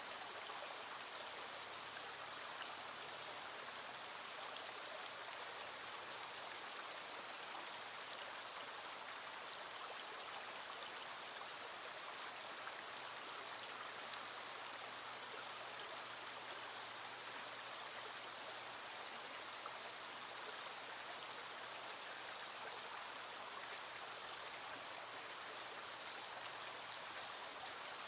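A small stream running steadily, with rain falling.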